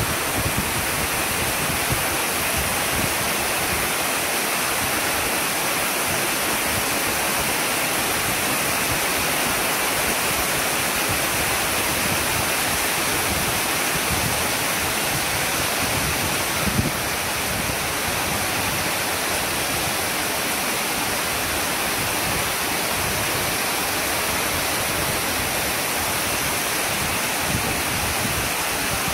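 Rain shower falling steadily, a dense even hiss of rain with no let-up. One brief low thump about seventeen seconds in.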